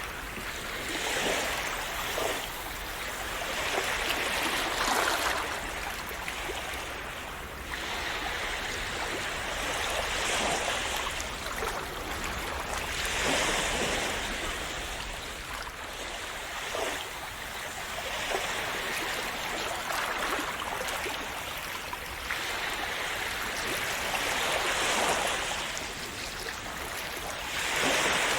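Sea waves washing in and breaking, swelling and fading every few seconds.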